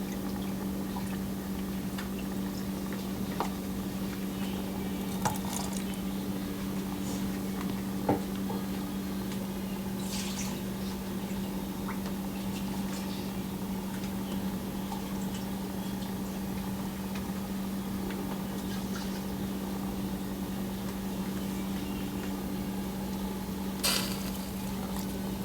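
A steady low hum from a kitchen appliance, with a few faint clicks and soft liquid sounds from cooking.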